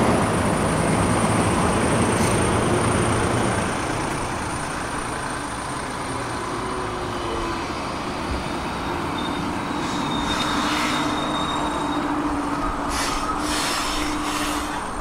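Roslagsbanan narrow-gauge electric commuter train running along the track: a steady rumble of wheels on rail under a faint high whine, with a few brief high-pitched wheel squeals, one early and several in the second half.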